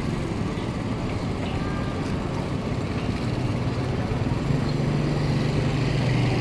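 A steady low engine hum that grows louder about halfway through.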